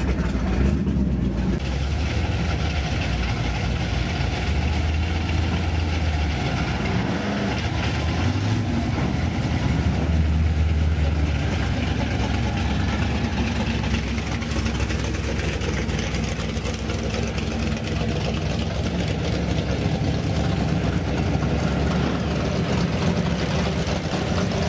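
Classic V8 muscle car engines idling with a steady low rumble. The pitch rises and falls a few times as the engines are revved or pull away.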